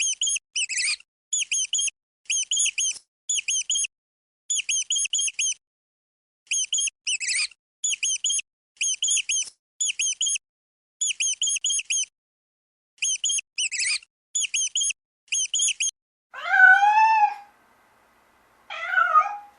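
Rapid high-pitched chirps in short clusters of four or five, repeating steadily with an occasional falling squeak, from a small animal. Near the end a domestic cat meows twice, louder than the chirps.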